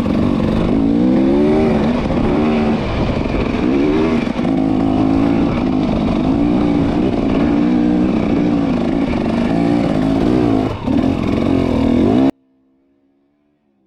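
Motorcycle engine running on the move, its pitch rising and falling again and again as the bike accelerates, shifts and eases off. The sound cuts off suddenly near the end.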